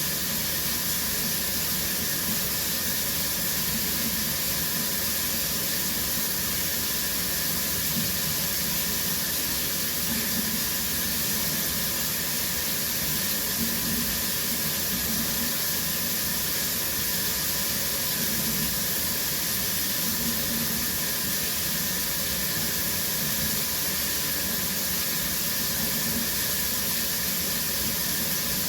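Shower running steadily: water spraying from the showerhead and splashing down in a small tiled room, an even hiss.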